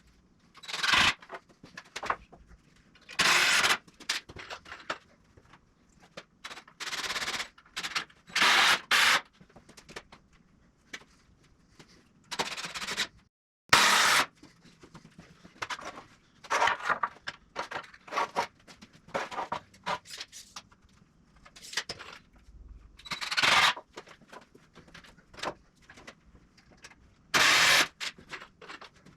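Irregular short bursts of scraping, rasping noise, each under a second and separated by pauses, from hand work on a wooden 2x4 frame.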